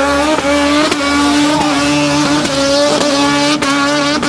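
Rotary-engined drift car held at high, nearly steady revs through a slide, with a few brief dips in the engine note. Tyres squeal under it.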